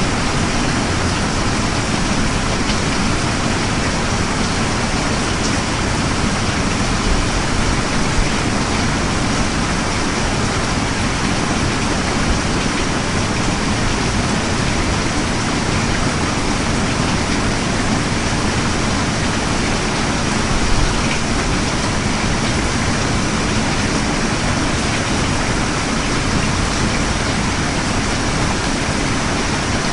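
Steady heavy rain ambience: an even, unbroken hiss with a deep rumble beneath it.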